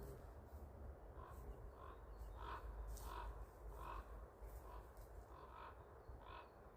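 Common raven giving a series of about ten short, harsh calls, roughly two a second, faint against the background.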